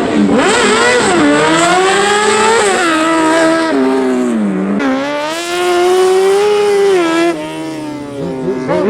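Race car engine revving hard, its pitch climbing and dropping again and again as the car accelerates and lifts off through a slalom course. It gets quieter for about a second around seven seconds in, then picks up again.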